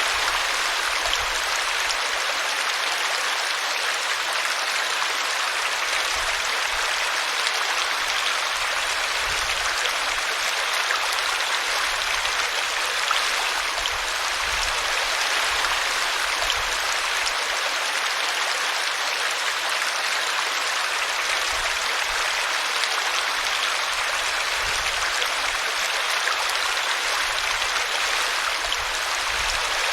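Small brook running steadily over a tree root, a constant babbling rush of water.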